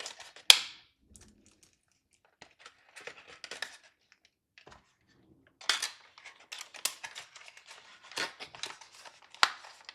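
Small leftover PC parts and their plastic packaging being handled and put away: scattered clicks and short spells of light rustling, with a sharp click about half a second in and another near the end.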